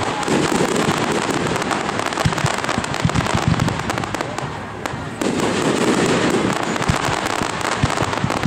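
Fireworks display: a dense stream of sharp pops and crackles from bursting aerial shells, with a sudden loud new burst about five seconds in.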